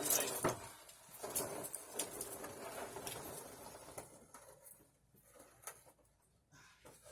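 Coolant spattering and dripping from a disconnected radiator hose, an irregular patter with small ticks that dies away after about four seconds to a few scattered drips.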